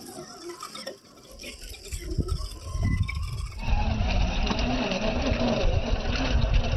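Electric radio-controlled model trucks driving: motor whine and rumble, growing and then jumping louder and steadier about three and a half seconds in.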